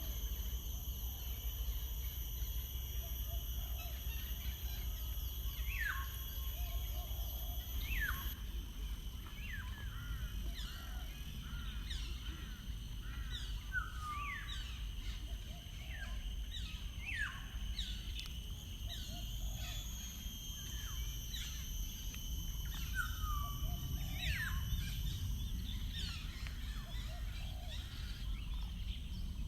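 Wild birds singing outdoors: short, repeated downward-sliding whistled notes every second or two, beginning a few seconds in, over a steady high-pitched ringing and a low background rumble.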